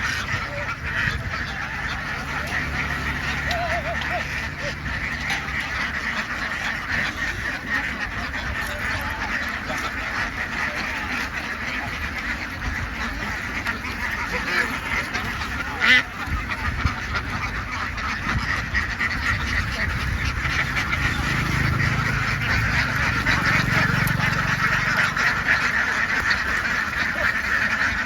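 A large flock of domestic ducks quacking all at once, a dense, unbroken din of many birds. A low rumble runs underneath, and there is one sharp knock about sixteen seconds in.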